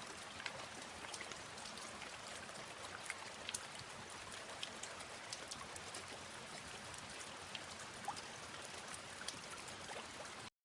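Light rain falling, a steady faint patter with scattered individual drops ticking. It cuts off suddenly just before the end.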